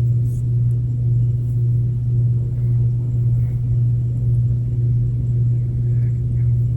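A steady low hum with a few faint small ticks over it.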